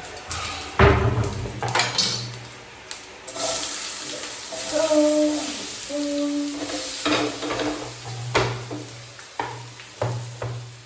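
Kitchen cooking sounds: a utensil knocks against a metal pan several times, and a hiss rises for a few seconds in the middle.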